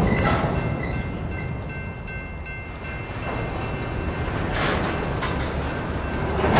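Empty covered hopper grain cars rolling past, their steel wheels rumbling on the rails with a faint thin high squeal in the first few seconds and louder clattering near the end.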